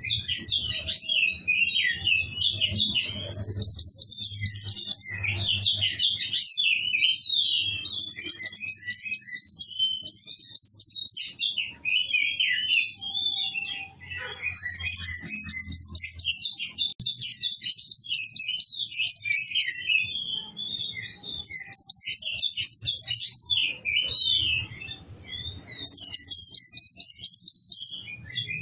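Kowul bird singing vigorously. Its song alternates fast, even, high trills of rapidly repeated notes, each lasting one to three seconds, with scratchy, jumbled twittering phrases, almost without pause.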